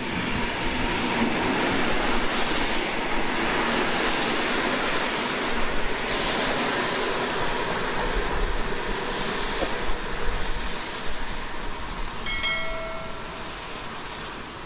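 Passenger coaches of a departing train rolling past on the rails, a steady rumble of wheels on track. From about halfway through, a high, thin wheel squeal rises above it and holds, with a brief sharper squeal of several tones near the end.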